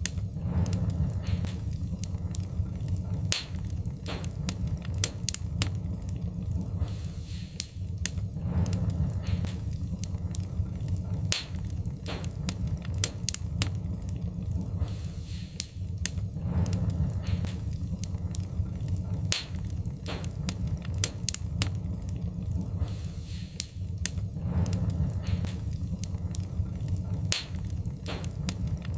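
Wood-burning fire crackling, with frequent sharp irregular pops and snaps over a steady low rumble.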